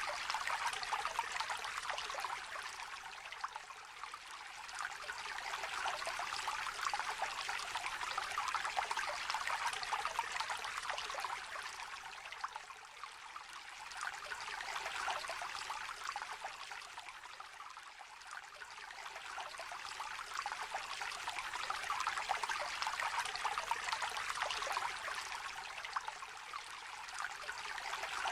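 A shallow river trickling and babbling over stones, a steady bubbling rush that swells and eases a few times.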